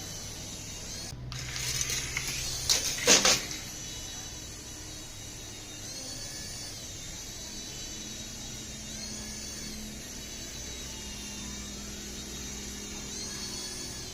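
Toy remote-control helicopter's small electric motor and rotor whining steadily, its pitch dipping and recovering several times. A burst of clattering knocks comes about two to three seconds in.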